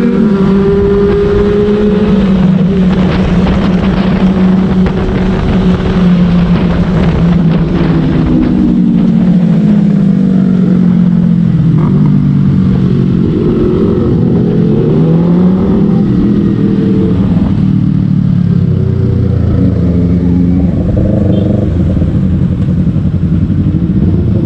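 Motorcycle engines running, their pitch rising and falling with throttle and gear changes; several engines at different pitches overlap through the middle part.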